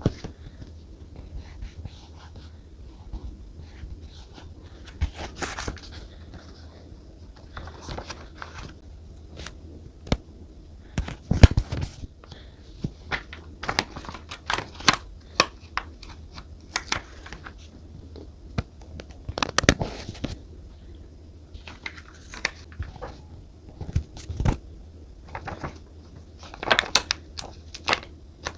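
Paper and stationery handling on a desk during journaling: scattered taps and clicks of items being set down, with short rustles and crinkles of paper and sticker sheets. The loudest knock comes about eleven seconds in, over a steady low hum.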